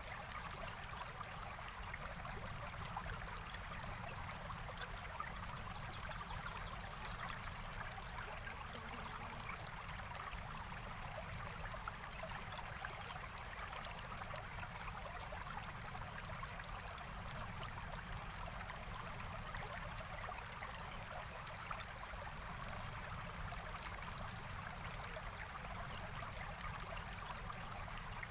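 Forest stream flowing steadily, a continuous even rush of water, with a few brief faint clicks.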